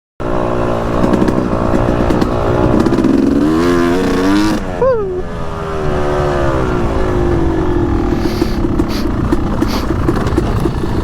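Yamaha YZ250X single-cylinder two-stroke dirt bike engine running on a trail under the throttle. The revs climb, drop sharply about five seconds in, then hold a lower, steadier note.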